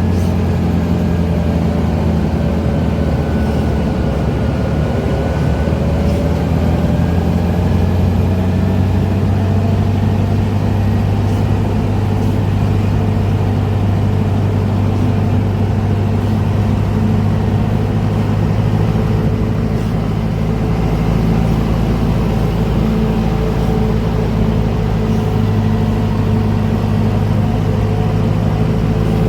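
Heavy diesel engine of sugarcane harvesting machinery running steadily under load, a deep constant hum with a faint whine that drifts slowly in pitch.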